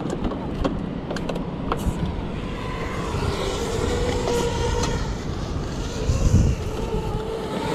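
A vehicle engine running steadily under a low rumble, with a few sharp clicks in the first two seconds.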